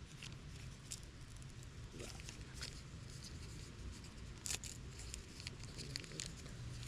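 Scattered small clicks and rustles, as of gear being handled, over a steady low hum.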